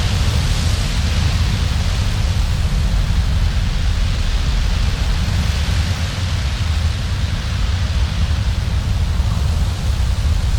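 Strong winter-storm wind blowing steadily, with a deep rumble of gusts buffeting the microphone under a hiss that swells and eases.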